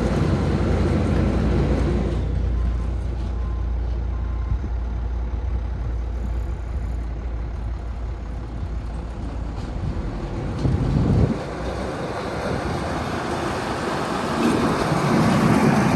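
International 4700 truck's diesel engine running, with a brief louder surge about eleven seconds in and the sound rising again near the end.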